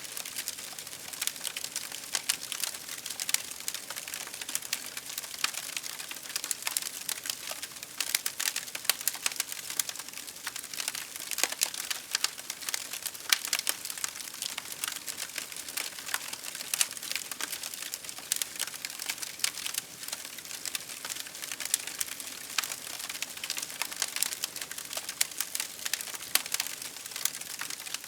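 Wood fire crackling steadily, with a dense run of irregular sharp pops and snaps over a soft hiss.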